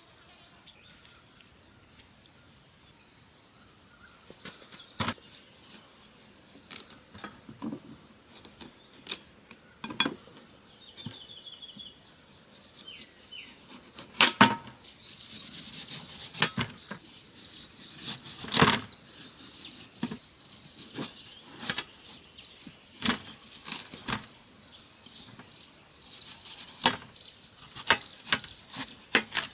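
Birds chirping in quick repeated series, with insects and faint outdoor ambience, broken by scattered sharp knocks and clicks; the two loudest knocks come about halfway through.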